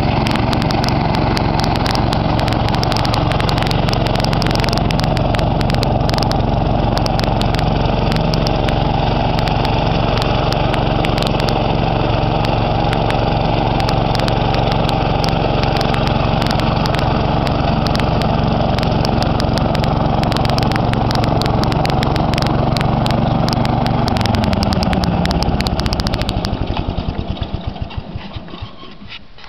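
1975 Power King garden tractor engine running loud and steady, then shut off about 24 seconds in: its pitch falls and the firing strokes slow and fade until it stops.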